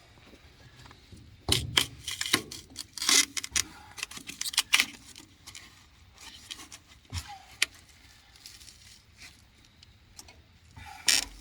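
Metal plumbing fittings and pipe being handled: a cluster of clicks, clinks and rustling, then scattered single ticks and a knock, with another short rattle near the end.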